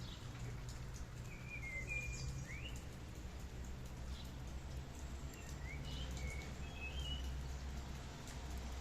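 Steady rain with a low rumble underneath, and a songbird chirping in short phrases: a few quick chirps between about one and three seconds in, and more in the middle to later part.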